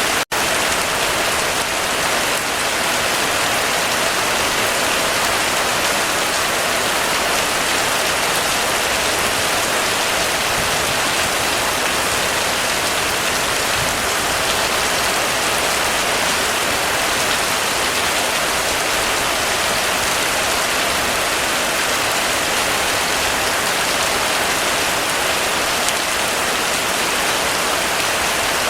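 Heavy rain falling steadily, an even dense hiss of downpour with no thunder, broken only by a momentary dropout just after the start.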